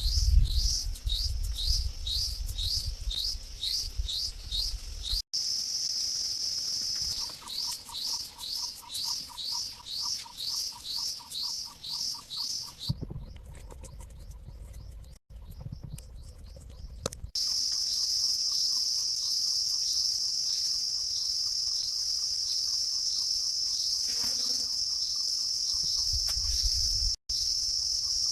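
Nature ambience of high, rapidly repeated chirps, about two a second, broken briefly by a steady high buzz. From about two-thirds of the way in, a continuous, even high-pitched insect drone takes over.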